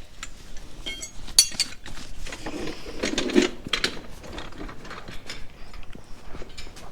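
Scattered metallic clicks and clinks of hand tools and metal parts, with one ringing clink about a second and a half in.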